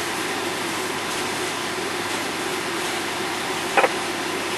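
Steady rushing noise of a fire apparatus running at a fireground, with one short chirp about four seconds in.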